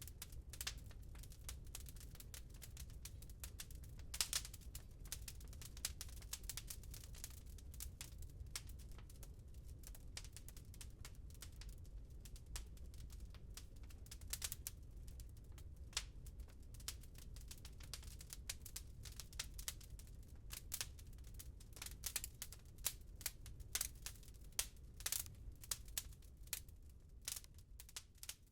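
Wood log fire crackling in a fireplace: irregular sharp pops and snaps over a low steady rumble, the pops coming thicker and louder in the second half.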